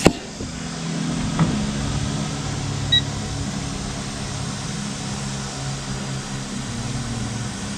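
A steady low mechanical hum, with one short electronic beep about three seconds in.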